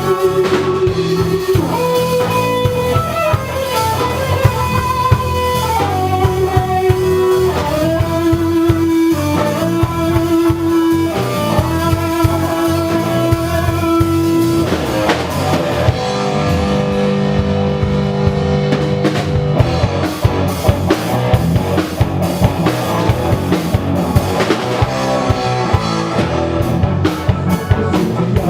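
Live band playing an instrumental passage: a lead melody of long held notes that slide from pitch to pitch over drums, bass and guitar.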